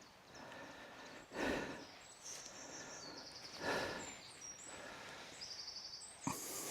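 Hammock underblanket fabric rustling in three short swells as its drawstring is worked, with a bird trilling quietly in the background.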